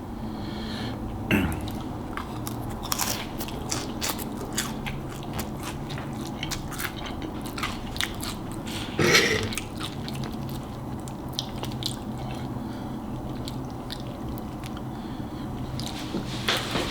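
A person chewing and biting a mouthful of Hot Cheetos noodles, with many small wet clicks and some crunch. One louder mouth sound comes about nine seconds in.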